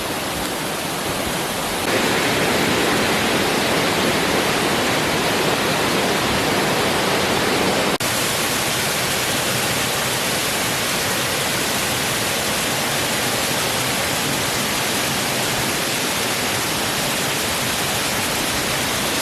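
La Coca Falls, a tropical rainforest waterfall, rushing steadily over rock. The sound grows louder about two seconds in.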